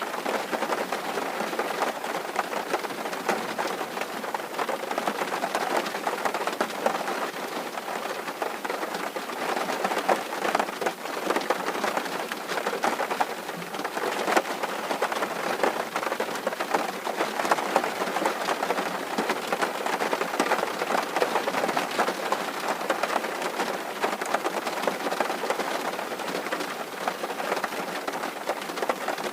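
Steady rain drumming on a tin roof: a dense, even patter of countless drop impacts on the metal.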